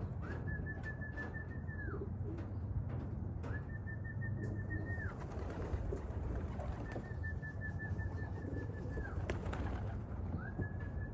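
A whistle blown four times as a feed call to bring young racing pigeons in to eat. Each note is held about two seconds at one steady high pitch with a slight warble, sliding up at the start and dropping off at the end.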